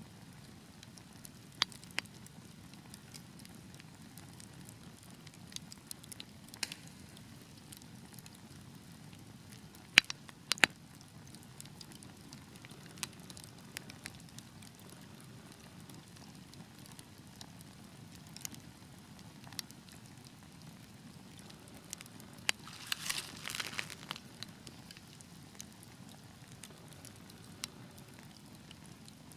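Fire in a fireplace crackling: scattered sharp pops over a steady low rush of burning, with a short flurry of crackles about three-quarters of the way through.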